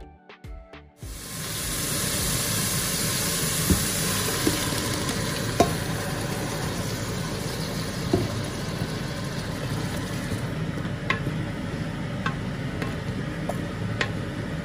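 Music stops about a second in as food starts sizzling loudly in hot oil in a metal pressure-cooker pot. The sizzling goes on while it is stirred with a wooden spoon, with a few sharp knocks of the spoon against the pot.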